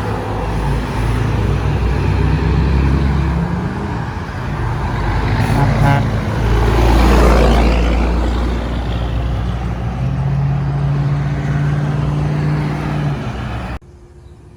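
Trucks and other traffic passing on a road: engine drone and tyre noise, with the loudest pass-by, swelling and fading, about seven seconds in. The sound drops away suddenly near the end.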